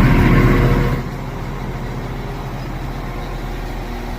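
A train going by close at hand: its loud rumble drops off suddenly about a second in, leaving a steadier, quieter train hum.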